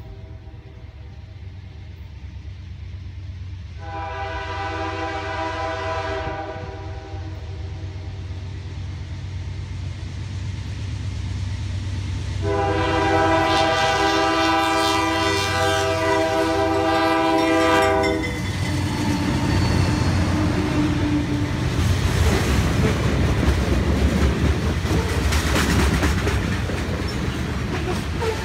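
CN grain freight led by GE C44-9W and C40-8M diesel locomotives approaching and passing close by. Its multi-note air horn sounds twice, a short blast about four seconds in and a longer one from about twelve to eighteen seconds, over the steady rumble of the diesels. The locomotives then go by, followed by covered hopper cars rolling past with rapid wheel clatter.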